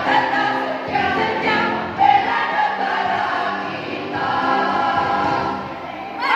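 Choir singing in parts, holding notes and moving between chords.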